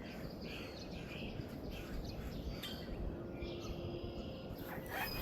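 Outdoor ambience of birds chirping now and then over a steady low rumble of background noise.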